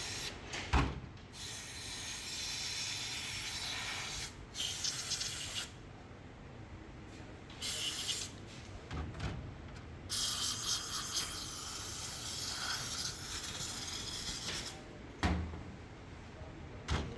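Throttle body being cleaned: long spells of steady hissing, like aerosol cleaner sprayed into it, with rubbing and a few sharp knocks.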